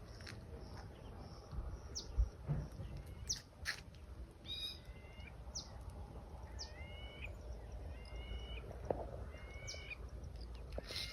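Birds calling: scattered quick downward chirps and a repeated two-note call, rising then falling, heard four or five times, over a steady low rumble.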